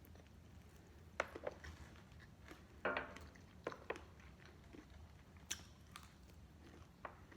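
Close-up mouth sounds of someone eating fried chicken: a scattered handful of soft wet smacks and clicks of chewing, with one slightly longer smack about three seconds in.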